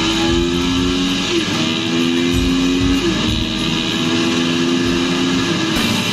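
Background guitar music laid over a Kawasaki KX250F dirt bike's four-stroke single engine at high speed. The engine's pitch climbs steadily and drops sharply three times as the rider shifts up through the gears.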